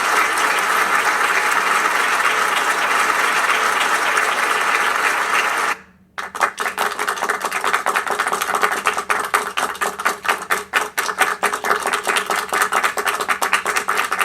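A crowd applauding steadily, cut off about six seconds in. After a brief gap, a smaller group clapping, with individual claps heard as rapid, uneven sharp slaps.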